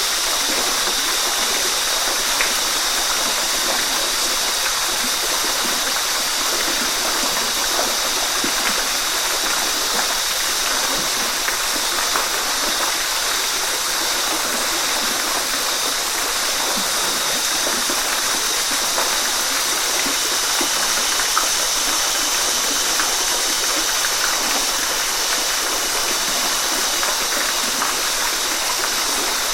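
Waterfall: a steady, even rush of falling water with small splashes in it, mostly high hiss and little low rumble.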